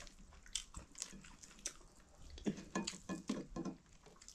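Quiet eating sounds from a meal of maize dhido and chicken curry: chewing and small mouth and hand clicks, busiest from about two and a half to three and a half seconds in.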